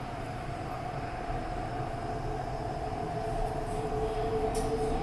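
Hyundai Rotem EMU heard from inside the car while running: a steady rumble of wheels on rail with a motor whine of steady tones, a second, lower tone joining about halfway, and the whole growing slowly louder.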